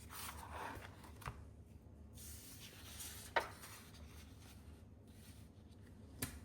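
Soft paper rustling and handling of a book, with a few sharp taps or clicks; the loudest tap comes about three and a half seconds in.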